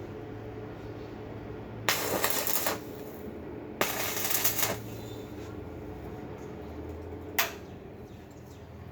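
Two short bursts of electric arc welding crackle, each just under a second and about two seconds apart, over a steady electrical hum. A single sharp click follows about seven seconds in.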